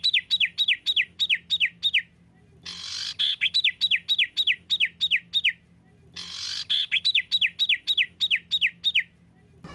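Songbird song looped for bird training ('masteran'). The same phrase plays three times: a short buzzy note, then a rapid run of about eight clear whistles, each sliding down in pitch, then a brief pause.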